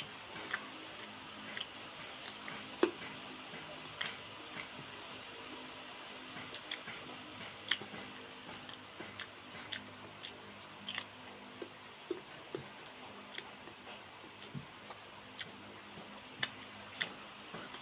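Close-up crunching and chewing of crisp green mango slices: irregular sharp crunches about a second apart over a faint steady hum.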